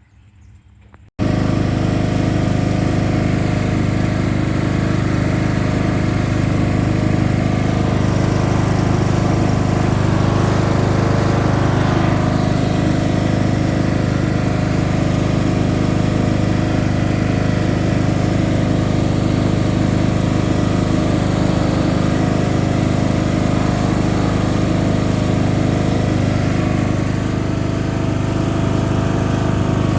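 Mowing tractor's engine running steadily at a constant working speed; the sound comes in abruptly about a second in.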